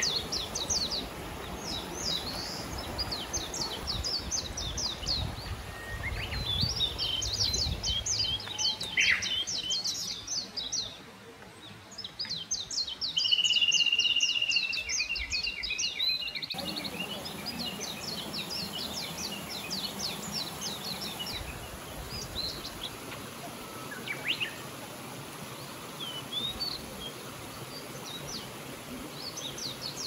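Small birds singing in repeated quick runs of high chirps over the steady rush of a small mountain stream.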